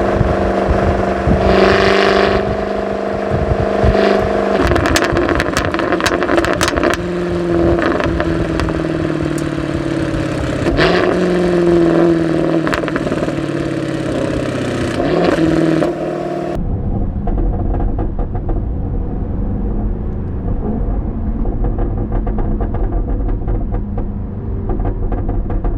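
2015 Jaguar F-type R's supercharged V8 running through its active exhaust while driving, the pitch rising and falling with throttle and gear changes, with a run of sharp cracks about five to seven seconds in. About two-thirds of the way through, the sound suddenly turns duller and deeper as the high end drops away.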